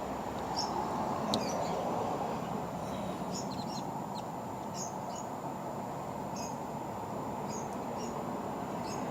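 Small birds chirping, with short high chirps every second or so, over a steady low background hum.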